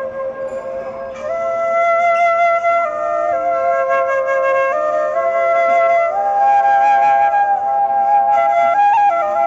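Bamboo flute playing slow, long-held notes that step to new pitches every second or two, over a steady lower held note.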